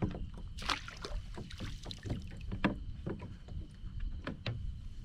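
Irregular small splashes, drips and knocks of water and gear around a fishing kayak, over a steady low rumble and a faint high tone.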